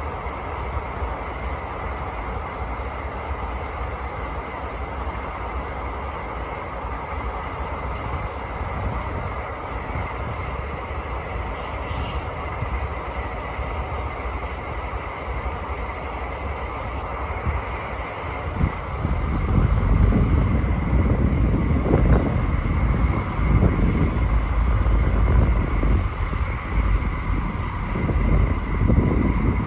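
DD51 diesel-hydraulic locomotive's twin V12 diesel engines running at full throttle, with a steady high whine over the engine note. About 18 seconds in, a heavy, pulsing low rumble comes in and the sound gets markedly louder.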